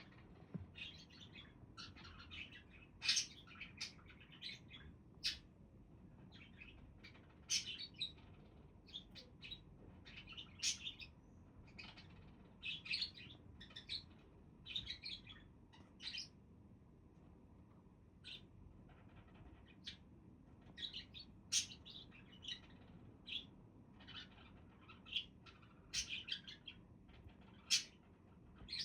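Pet budgerigars chirping: many short, high chirps in quick, irregular succession, some louder than others.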